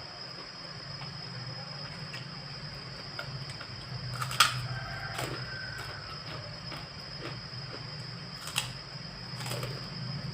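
Mealtime eating sounds: faint small ticks and two sharp clicks, about four and eight and a half seconds in, over a steady background hum.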